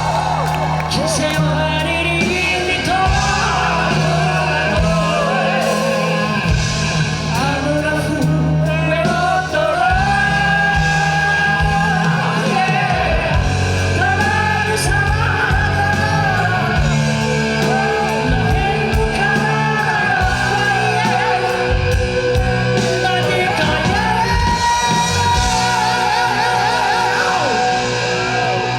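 Live rock band playing over bass and drums, with a sung vocal line of long, bending held notes.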